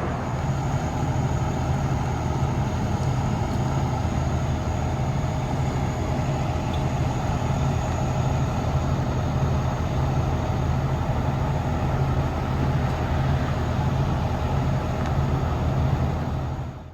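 Fire truck's diesel engine idling steadily: an even low rumble with a faint steady whine over it, cutting off suddenly at the end.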